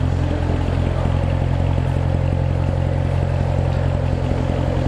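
A car driving at a steady pace, with a constant low engine drone and road noise that holds level and does not change.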